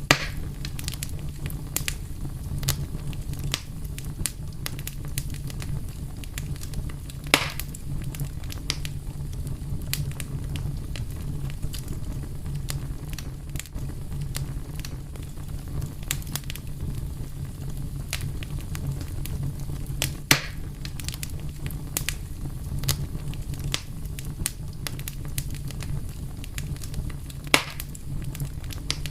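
Fire crackling: a steady low rumble with a constant scatter of small crackles, and a few louder pops, four in all.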